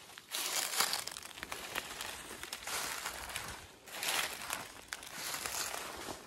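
Footsteps pushing through thick, dry undergrowth: dry leaves and brush crunching and crackling underfoot in a run of bursts, roughly one step after another.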